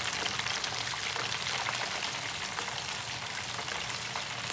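Beer-battered shrimp deep-frying in hot oil: a steady sizzling hiss with scattered small crackles and pops.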